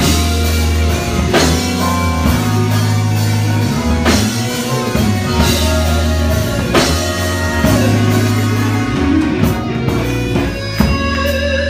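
Gospel band playing without voice: bass, guitar and drum kit over held chords, with a cymbal crash every few seconds.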